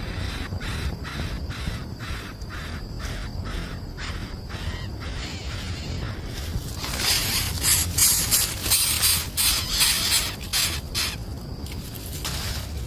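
Birds calling: short harsh calls repeated about three times a second. About six and a half seconds in, they give way to a louder, harsher run of squawks. A low rumble runs underneath.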